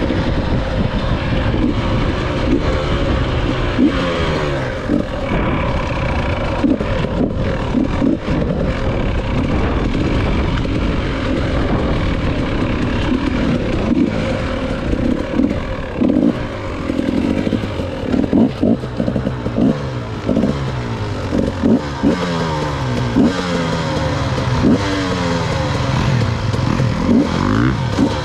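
Dirt bike engine being ridden, revving up and down repeatedly as the throttle opens and closes through gear changes. The rises and falls come quicker and shorter in the second half.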